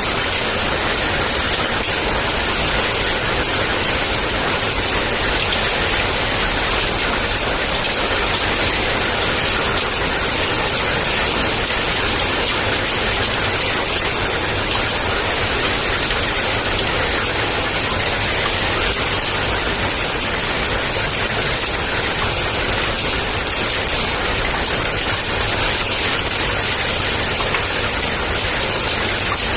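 Heavy rain falling in a steady downpour, an even hiss with a constant low rumble underneath.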